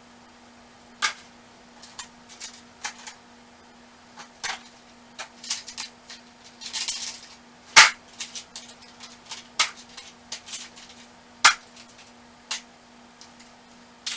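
Metal hand tools clinking and clanking irregularly as they are picked up and set down while being sorted, with a short rattle about seven seconds in and the loudest clank just after it.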